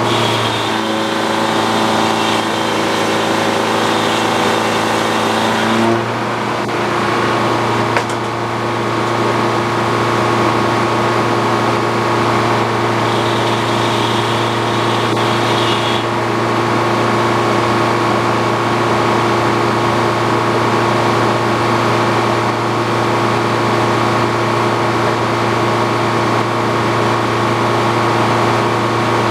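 Old Frick sawmill running, a steady machine drone from its power unit, with an extra whining tone over it for the first six seconds and a brief high whine about halfway through.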